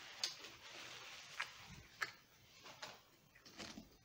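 Quiet chewing with the mouth closed: a handful of faint, sharp mouth clicks spread over a few seconds.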